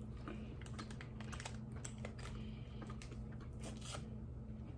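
Candy being chewed at close range: irregular small clicks and crackles over a steady low hum.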